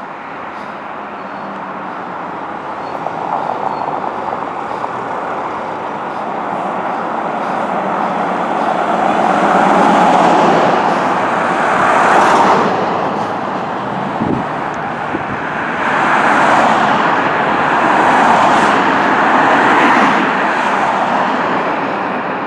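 Fire truck driving by on a road, its engine and tyre noise mixed with traffic and swelling loudest about ten to twelve seconds in and again from about sixteen to twenty seconds.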